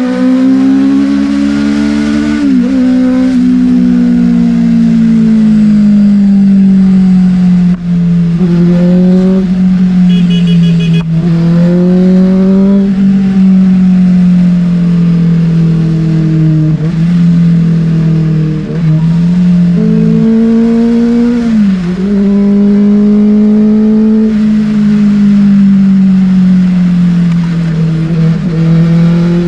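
Benelli TNT600's inline-four engine through an Austin Racing exhaust with no dB killer, loud under way at moderate revs. Its pitch rises and falls gently with the throttle, with a handful of brief sudden dips as the throttle is rolled off.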